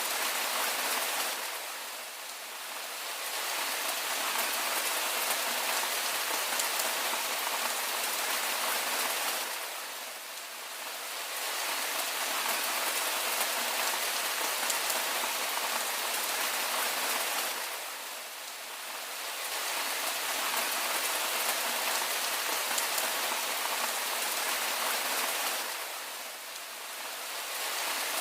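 Steady rain falling on a surface: a dense, even patter that eases briefly about every eight seconds.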